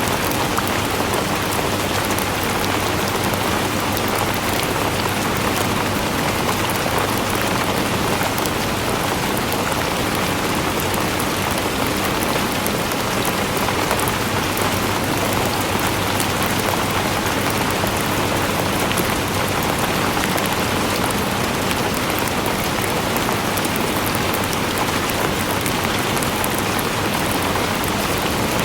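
Steady, heavy rainfall: a dense, even hiss of drops pattering on a surface, with fine crackle in the high end.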